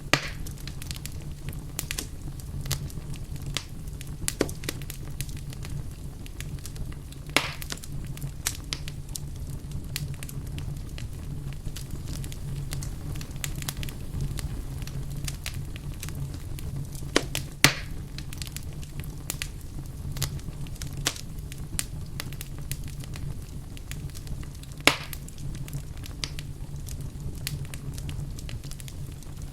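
Wood fire burning in a fireplace: constant small crackles over a steady low rumble, with a few louder sharp pops from the logs spread through.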